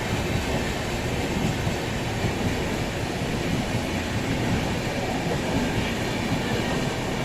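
Express train running through a station at speed without stopping: a steady rumble of the wheels with rapid clatter over the track.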